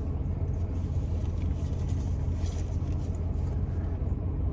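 Car engine idling, a steady low rumble heard from inside the cabin, with faint small rustles on top.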